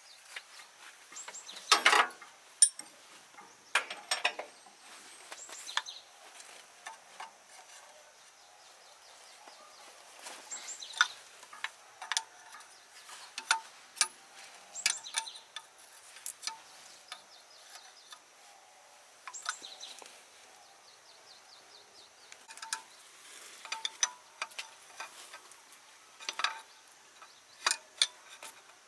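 Irregular clicks and knocks of hand tools at work on metal machine parts, some sharp and loud, most light, over a faint steady high-pitched hum.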